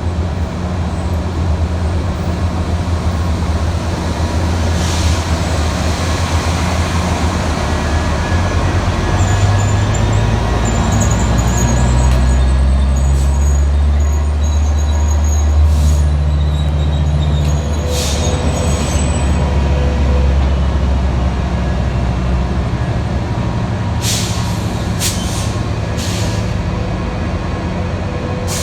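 Diesel passenger locomotive running at a station platform, its engine note rising and strengthening through the middle and then easing off, with several short air hisses, a cluster of them near the end.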